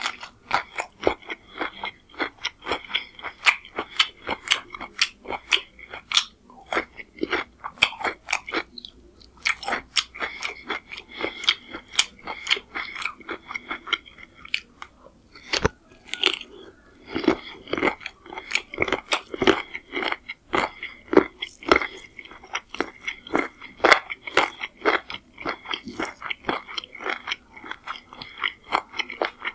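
Close-miked eating: crisp crunching bites and chewing, several times a second, starting with a mouthful of raw cucumber and going on with chicken curry and pulao rice eaten by hand. The chewing pauses briefly twice, near the middle.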